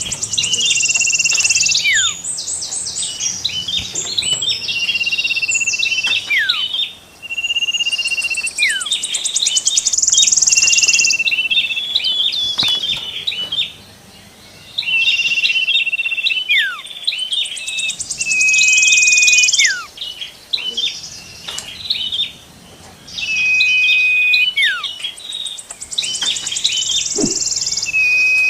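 Songbirds singing a phrase over and over, about every four to five seconds: a held whistle that ends in a quick falling slide, sharp chips, and a fast high buzzy trill.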